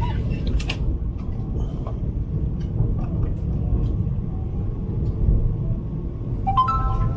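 Steady low rumble of the Vande Bharat Express electric trainset running along the track, heard from inside the air-conditioned chair car.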